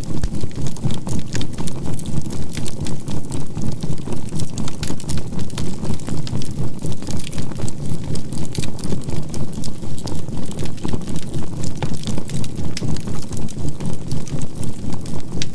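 Crackling charcoal fire mixed with a synthesized 528 Hz healing-tone and binaural-beat track, a low hum that pulses evenly about four times a second.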